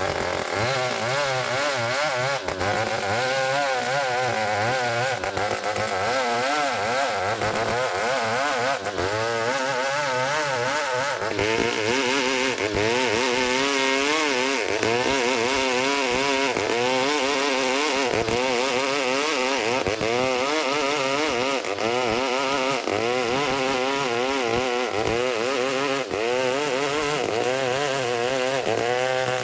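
Two-stroke chainsaw running under load as it rip-cuts a small ulin (Borneo ironwood) log into a beam, its engine pitch wavering up and down continuously as the chain bites into the wood.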